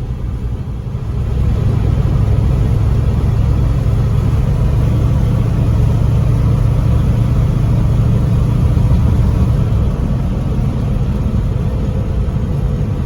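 Hot rod coupe's engine rumbling while driving, growing louder about a second in and easing slightly near the end.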